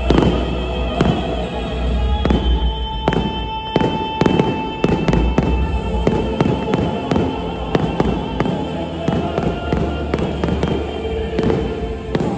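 Aerial fireworks shells bursting in a rapid series of bangs and crackles, with music playing underneath.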